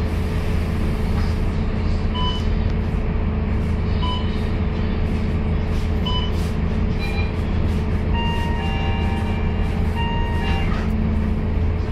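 Scania K230UB bus engine running steadily, heard from inside the passenger cabin. Short electronic beeps sound about every two seconds, then longer beeps near the end.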